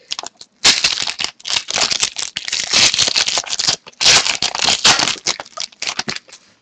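A trading-card pack wrapper crinkling and being torn open, with the cards rustling as they are pulled out. The sound is loud and broken into several dense stretches, stopping about six seconds in.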